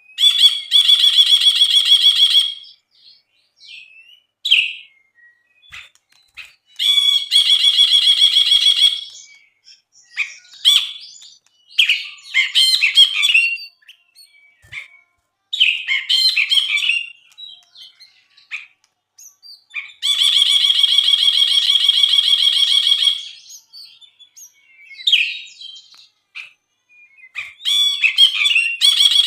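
Brinji (a bulbul) singing: long, rapid buzzing trills of two to three seconds, four times, alternating with bursts of varied chattering notes.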